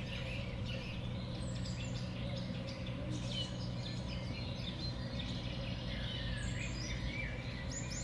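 Small songbirds calling at a winter seed feeder: many short, high chirps and a few falling notes from several birds, over a steady low background hum.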